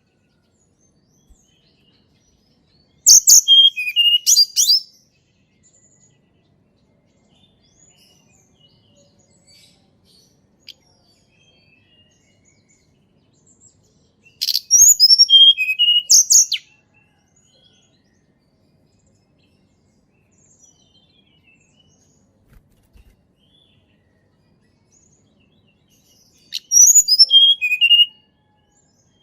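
Tledekan gunung songbird singing three short, high-pitched, quick phrases of varied notes, about two seconds each and roughly ten seconds apart.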